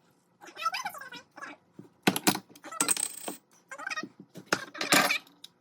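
A series of sharp clinks and knocks from kitchen utensils and containers handled while ingredients go into a blender, one ringing about three seconds in. Short wavering whines come about half a second in and again near four seconds.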